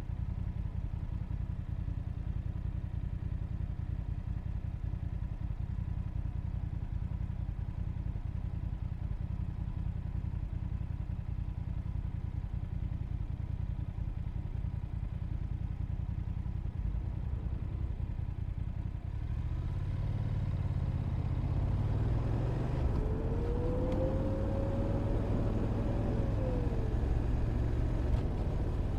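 Motorcycle engine running steadily at a low, even pitch. About two-thirds of the way in, louder engine noise comes in, with a whine that rises and then falls.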